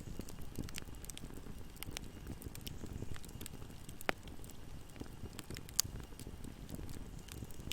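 Wood fire burning in a fireplace: a steady low rumble of flames with irregular sharp crackles and pops, two louder pops about four and six seconds in.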